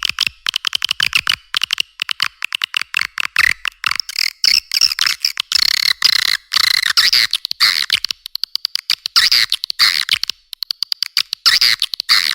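Swiftlet call track for luring edible-nest swiftlets into a swiftlet house: a dense, fast run of clicks and twittering chirps, some sweeping up and down in pitch. It sounds thin and high, with no low end.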